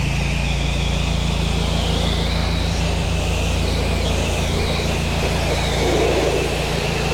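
Pressure-washing rig running: a steady engine drone under the continuous hiss of the water spray as the house wall is soaked.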